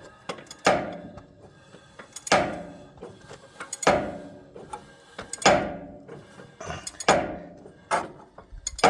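A hand wrench on the crankshaft of an Allis-Chalmers 7010's inline-six engine, worked in strokes to turn the engine over: about six sharp metallic clanks, one every second and a half or so, each ringing briefly, with lighter clicks in between.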